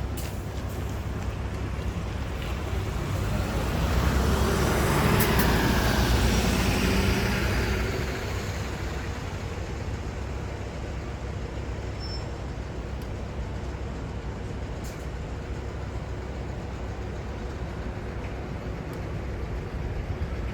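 Street traffic noise with one vehicle passing close, swelling up for a few seconds and fading away, then a steady hum of traffic.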